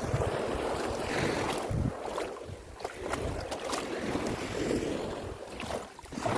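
Wind buffeting the microphone in a low rumble, over the wash of sea surf rising and falling at the shore.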